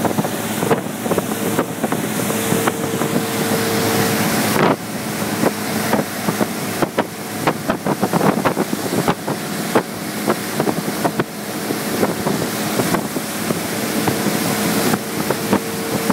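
Motorboat running under way, its engine a steady hum under heavy wind noise on the microphone and rushing water, with frequent short knocks and slaps.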